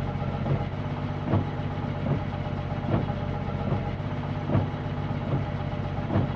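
A vehicle engine running steadily, with a short knock repeating about every 0.8 seconds.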